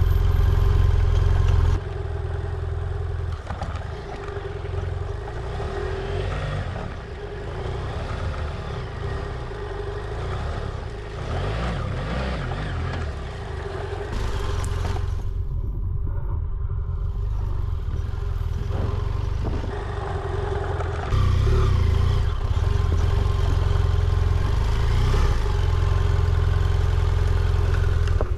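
BMW F800GS parallel-twin motorcycle engine running while being ridden, with a heavy low rumble of wind on the microphone. Loud at first, it drops back after about two seconds, falls quietest around the middle, and grows loud again for the last third.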